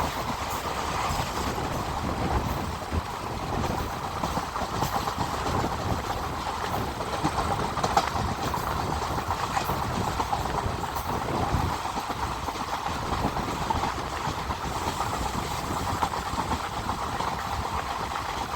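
Express passenger train running at speed, heard from on board: a steady rumble with the wheels clicking over the rail joints.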